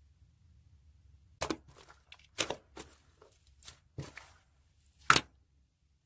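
Slime being squeezed and pressed by hand, giving a series of sharp pops and crackles, about eight over four seconds, the loudest near the end.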